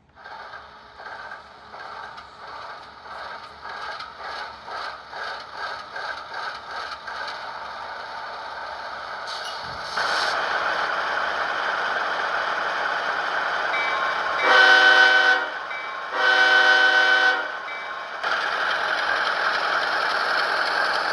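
Train sound: wheels clacking over rail joints in a rhythm that speeds up, turning into a steady rolling rumble, with two horn blasts of about a second each just past the middle.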